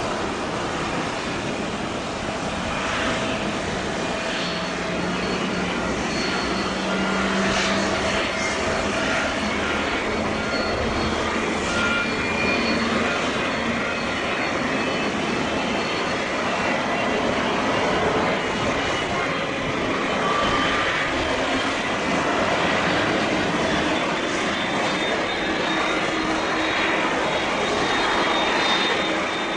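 Starlux Airbus A350-941's Rolls-Royce Trent XWB turbofan engines running steadily, a dense jet roar with faint whining tones.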